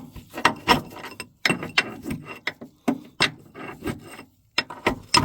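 Irregular metallic knocks and clanks, a few a second with a short pause near the end, as a Bobcat 753 skid steer's hydraulic drive motor is worked loose from its housing after its mounting bolts are out.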